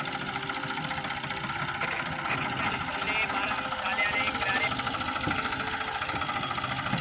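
Tractor diesel engine running steadily, with a fast, even knocking beat.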